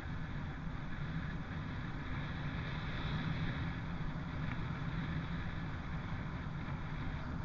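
Trail bike being ridden at a steady pace: an even, low-pitched running sound, with wind on the microphone.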